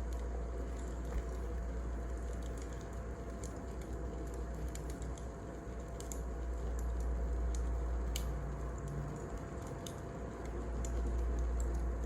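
Wood fire burning, with irregular sharp crackles and pops over a low steady rumble.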